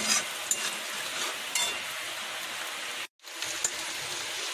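Chopped onion, green chillies and peanuts sizzling in hot oil in a metal kadhai, with the scrape and tick of a spatula stirring them. The sound cuts out for a moment about three seconds in.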